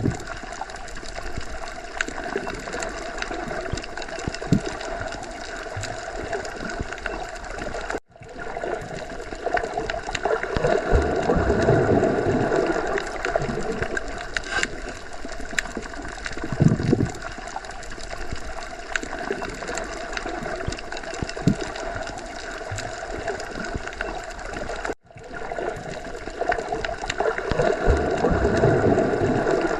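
Underwater ocean ambience: a steady, muffled wash of gurgling water with slow swells and low bubbly thuds. It cuts out almost completely for a moment twice, about a quarter of the way in and again near the end.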